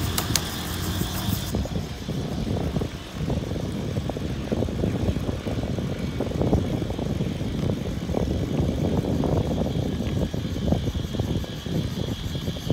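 Wind buffeting the microphone while riding a bicycle: a loud, uneven low rumble. A higher hiss drops away about a second and a half in.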